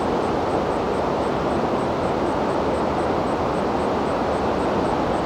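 Waterfall and river water rushing, a steady even noise with no breaks.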